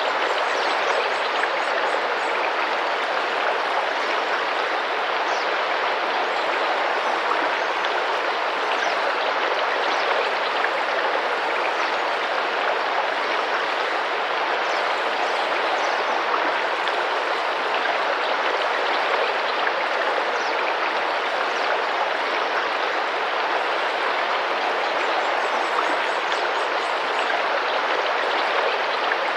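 Tropical rainforest river flowing steadily, a continuous rush of splashing water, with a few faint high bird chirps now and then.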